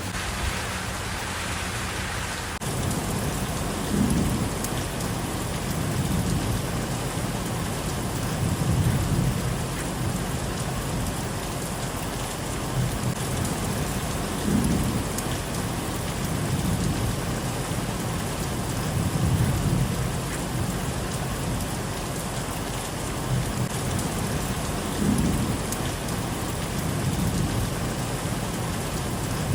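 Steady rain, with a low rumble that swells and fades about every five seconds. The sound turns fuller and deeper about two and a half seconds in.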